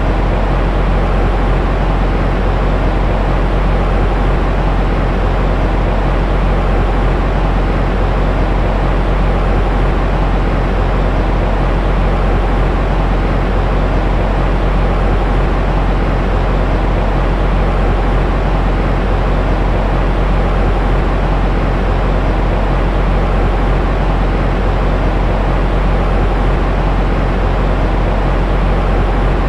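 Steady, unchanging white noise with a deep tone: most of its weight sits in the low end and little lies above the upper midrange.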